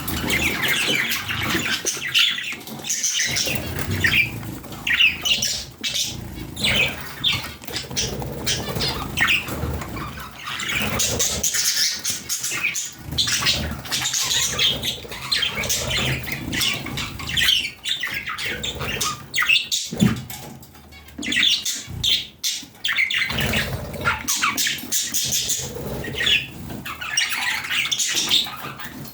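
Budgerigars chirping and chattering continuously, many quick high warbling notes overlapping one another.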